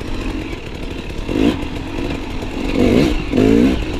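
Enduro motorcycle engine rising and falling in short bursts of throttle on a descent. Brief revs about a second and a half in, then a longer rising rev near the end.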